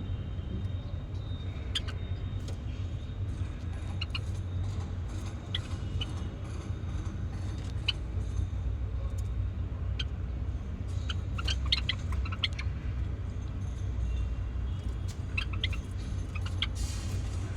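Java sparrows giving short, high chirping calls, scattered and coming in quick clusters twice in the second half, over a steady low rumble.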